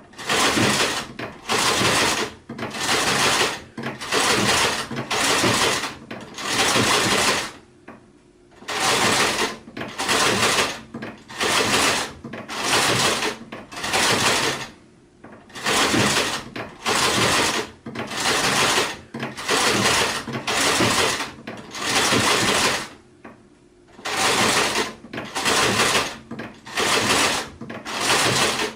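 Sewing machine stitching in short runs of about a second each, stopping and starting again over and over, with two longer pauses.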